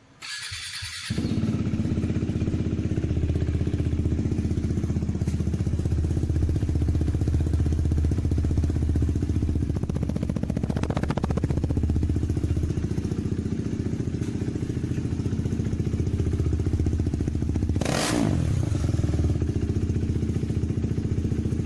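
KTM Duke 390's single-cylinder engine running with the exhaust removed. It starts up about a second in, then runs steadily, with a brief change about halfway and a sharper burst near the end.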